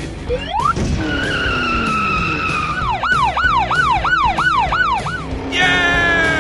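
Siren sound effect: a rising sweep into a held wail, then a fast yelp pulsing about three times a second. Near the end there is a falling tone with several overtones, over background music.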